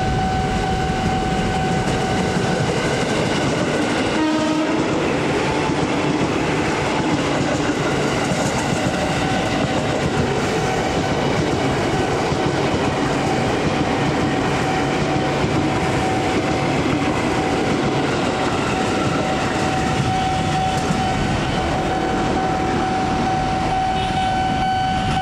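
Electric commuter trains running past on the track, wheels clacking over the rail joints. Over the train noise sounds a steady high-pitched warning tone that breaks off briefly about four seconds in.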